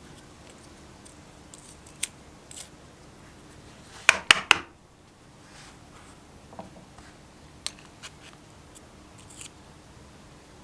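Sharp snipping clicks from small hand-tool work, three loud ones in quick succession about four seconds in, with scattered lighter ticks between.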